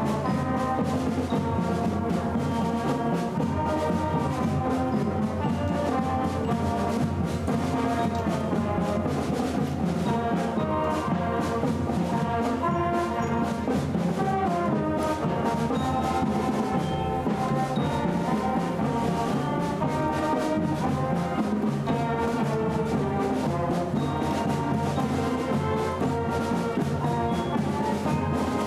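High school concert band playing a patriotic piece, with brass to the fore.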